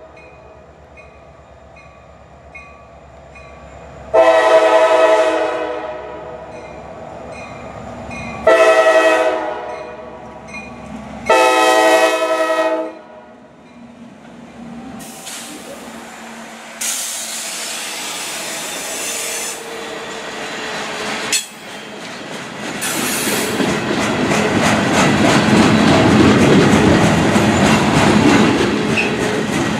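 CSX freight train's diesel locomotive sounding its multi-chime air horn three times, long, shorter, long, as it approaches. The locomotive then passes and a string of freight cars rolls by, a rising rumble and clatter of wheels on rail joints that grows louder toward the end.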